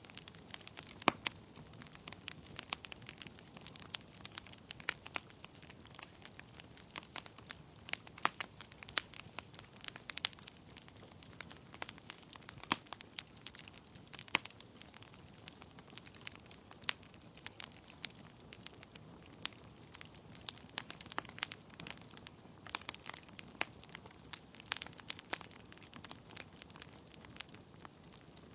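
Wood fire in a fireplace burning steadily, logs crackling and popping with many sharp irregular snaps over a soft hiss.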